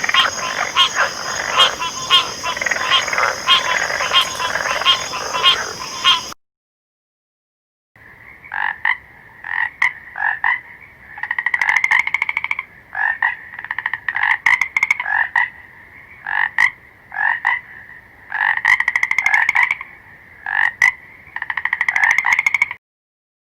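A dense frog chorus over a steady high whine cuts off abruptly after about six seconds. After a short gap of silence, frogs croak in a series of rapid pulsed calls, then stop shortly before the end.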